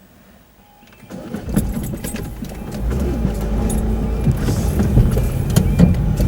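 A train running over the level crossing: a low rumble that rises quickly from about a second in and then holds steady and loud, with the clatter and knocks of wheels over the rails.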